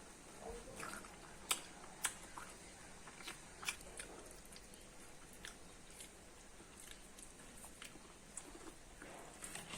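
A person biting and chewing corn close to the microphone: scattered sharp, crunchy clicks, the two loudest about a second and a half and two seconds in.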